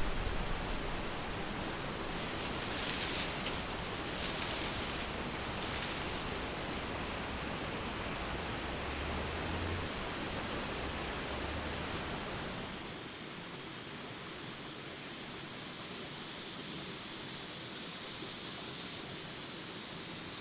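Daytime forest ambience: crickets trilling in a steady high drone over an even outdoor hiss. A low rumble underneath fades out about two-thirds of the way through.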